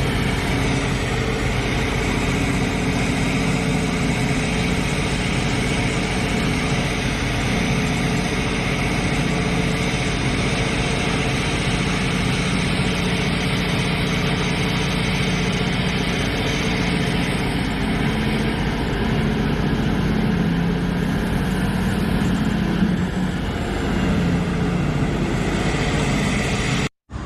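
Liebherr excavator's diesel engine running steadily, its low drone shifting slightly in pitch as the load changes. The sound drops out for an instant near the end.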